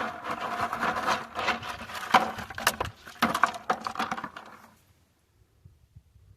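Rocks clattering and knocking together as a hand rummages through a bucket of them, a quick run of clicks for about five seconds that then stops.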